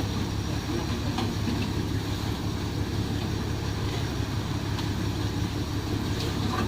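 An engine running steadily with a low, even hum and a few faint clicks.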